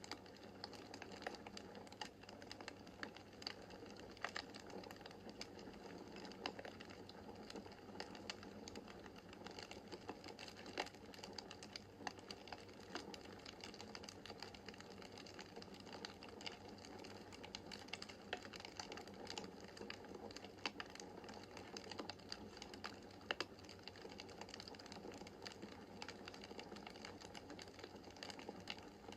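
Wood fire crackling in a fireplace: quiet, irregular snaps and pops, a few sharper than the rest, over a soft steady hum of the flames.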